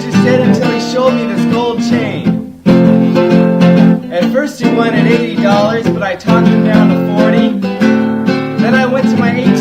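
Acoustic guitar music, strummed, with a brief break about two and a half seconds in.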